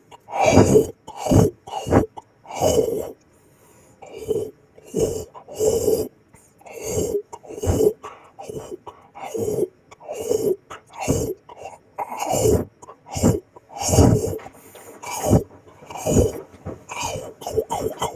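Close-up wet munching and chomping of gelatin jelly sweets, a separate bite about every half second to second with a short lull around three to four seconds in.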